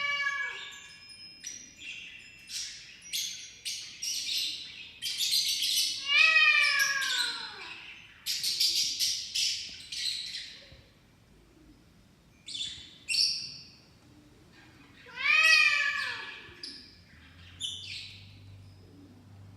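Magpie calling: a run of short chirps and warbling notes, with two longer calls that fall in pitch, about six seconds in and again about fifteen seconds in.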